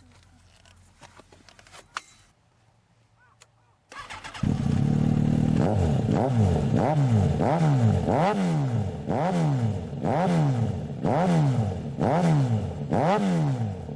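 Yamaha XJR1300's air-cooled inline-four with a loud aftermarket exhaust, coming in loud about four seconds in. It is then revved in a rhythmic series of about ten quick throttle blips, each rising sharply and falling back.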